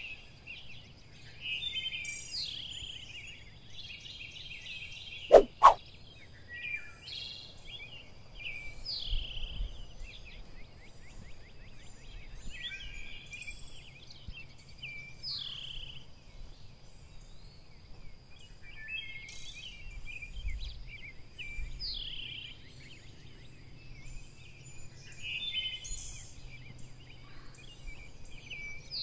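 Birdsong: repeated short chirping and trilling calls, with a steady thin high tone running beneath them. About five seconds in, two loud, quick rising whistle-like sweeps sound one right after the other.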